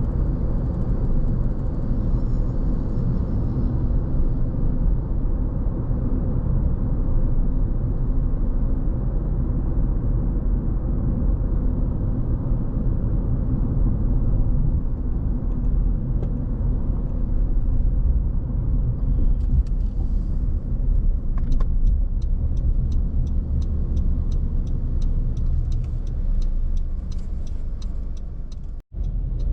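Steady low rumble of a car driving, road and engine noise. About two-thirds of the way in, a regular fast ticking joins it and carries on, and the sound drops out for an instant just before the end.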